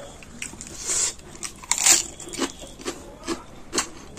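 Chewing mouthfuls of raw cabbage leaf, with crisp crunches, the loudest about one and two seconds in, between smaller moist clicks.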